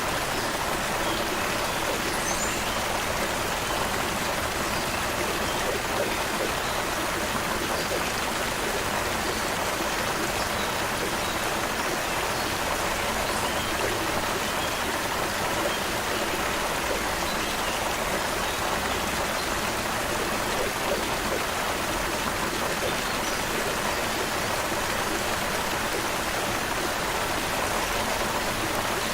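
Creek water flowing over rocks: a steady, even rush of babbling water that does not let up, with a few faint high bird chirps in the background.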